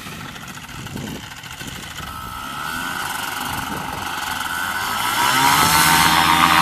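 Paramotor engine and propeller running, growing steadily louder, with the pitch rising from about five seconds in.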